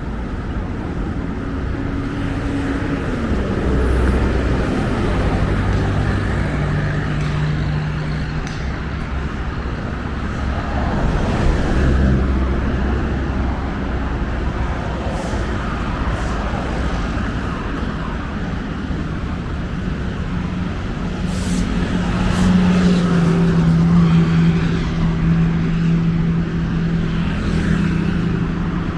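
Steady city road traffic: vehicles passing and running, with swells as they go by. A heavier engine's steady hum is loudest over the last few seconds.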